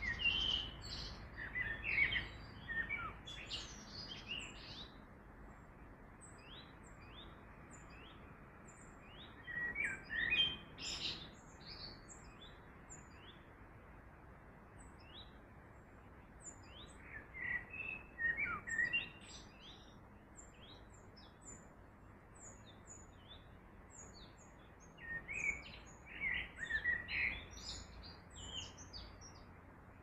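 Songbirds singing: four loud phrases of song, one about every seven or eight seconds, with many short high chirps in between, over a steady soft rush in the background.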